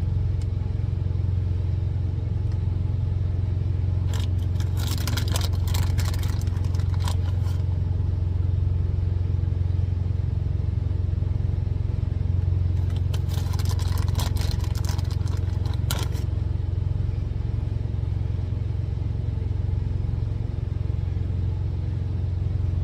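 Steady low hum of a truck's idling engine, with two spells of crackly rustling and clatter, about four and thirteen seconds in, while grated Parmesan is sprinkled over meatballs in a cast iron skillet.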